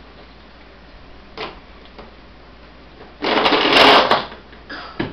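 Toy monster truck being handled: a knock, then about a second of loud plastic rattling, and a few clicks near the end.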